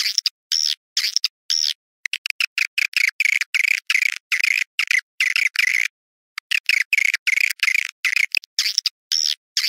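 Recorded swiftlet calls: rapid chirping twitters in bursts of about a third of a second, with clean silent gaps between them and a longer pause about six seconds in. Nothing sounds below about 1 kHz, as in an edited, filtered swiftlet call recording.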